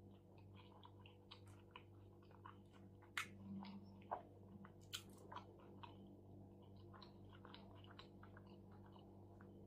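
Quiet close-up chewing of shawarma: soft, wet mouth clicks and smacks, with a few sharper ones about three to five seconds in, over a low steady hum.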